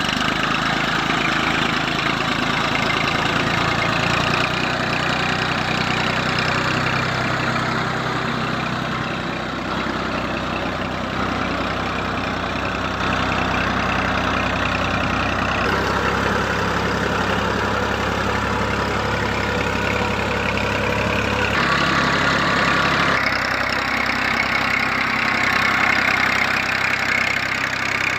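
Tractor engine running steadily, its low hum stepping to a slightly different pitch a few times.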